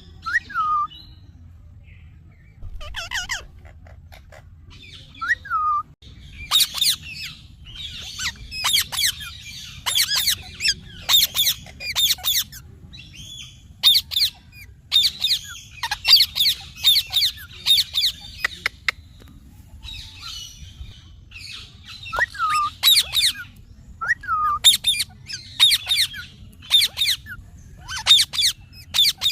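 Parrot squawking in quick runs of short, shrill calls, with a few brief falling whistles between them.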